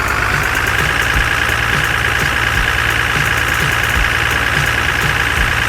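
Vehicle engine sound running steadily at idle: an even hum with a low rumble that neither rises nor falls.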